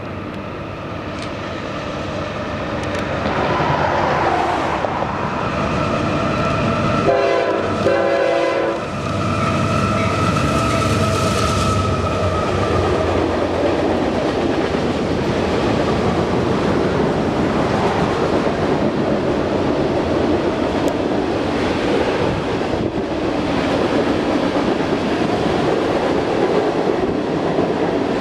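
Union Pacific GE AC6000CW diesel locomotive leading a CSX freight train. Its engine grows louder as it approaches, and its horn sounds in two short blasts about seven seconds in as it passes close by. Then comes the steady rolling and clickety-clack of the freight cars going by.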